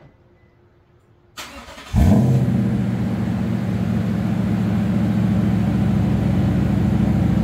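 2008 Toyota Tundra cold start through a Dirty Deeds aluminized-steel catback exhaust with dual 12-inch mufflers and resonator. The starter cranks briefly about a second and a half in, the engine catches at about two seconds, then settles into a steady cold idle.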